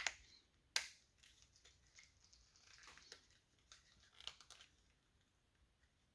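Faint handling of a rubber gasket being pushed down onto a car's exterior door handle: two sharp clicks in the first second, then light rustling and a few small clicks about four seconds in.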